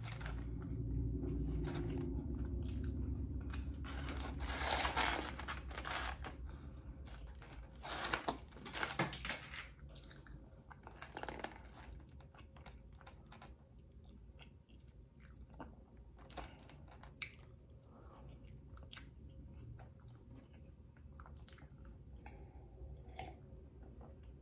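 Close-miked eating of fried fast food: chewing and crunching with sharp mouth clicks, loudest in the first ten seconds, then quieter scattered chewing clicks.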